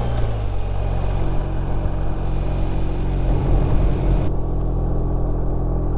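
BMW R1250 RT's boxer-twin engine running at road speed, heard from the rider's seat along with wind rush. The engine note dips slightly just after the start, then holds steady, and the wind rises briefly a little past halfway.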